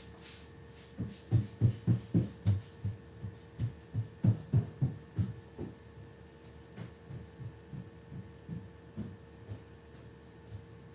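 Dull low thumps, about three or four a second for several seconds, then fainter and more spaced out, over a steady hum.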